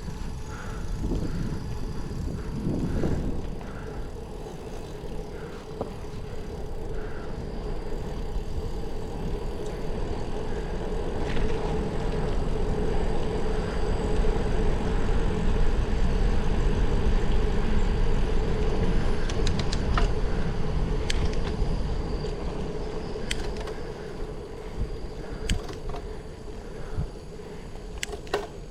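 Riding noise from a moving bicycle: wind rushing over the microphone and tyre rumble on the road, with a steady hum. It grows louder through the middle and eases toward the end, with a few sharp clicks near the end.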